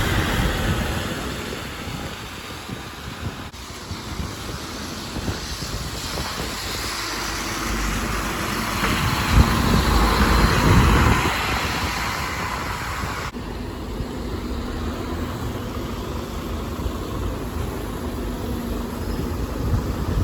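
Buses and other road traffic passing, a steady rumble and tyre noise that swells as a vehicle goes by about nine to eleven seconds in.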